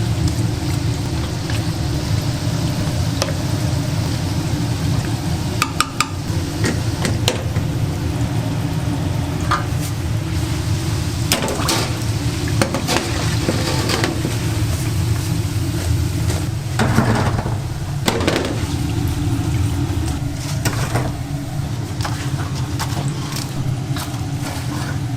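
Busy donut-shop kitchen noise: a steady low machine hum runs throughout, with scattered knocks and clatters of utensils and pans.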